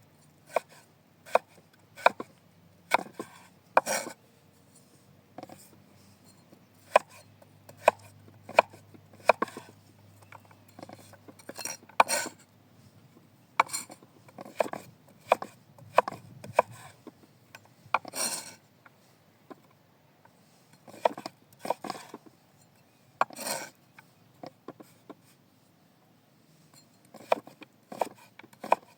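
Irregular sharp knocks and clicks, single or a few close together, with short pauses between.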